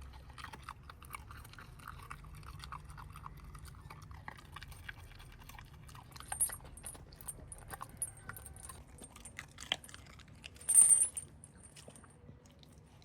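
A pet chewing and crunching its food with many small quick clicks, and a brief bright jingling clink about eleven seconds in.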